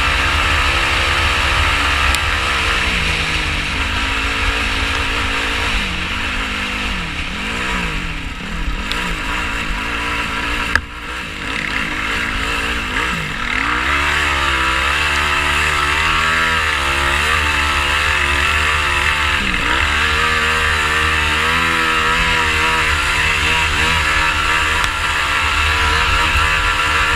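Sport quad's single-cylinder four-stroke engine (a 2018 Yamaha YFZ450R) being ridden off-road, revving up and down with the throttle. The engine note rises and falls and eases off for several seconds in the middle, then pulls steadily again about halfway through. Wind rumbles on the microphone throughout.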